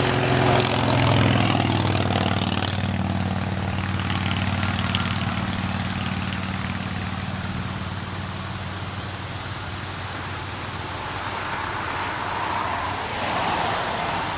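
Diesel freight locomotives running, a steady low engine drone that slowly fades, over the rushing rumble of train wheels on the rails, which swells again near the end.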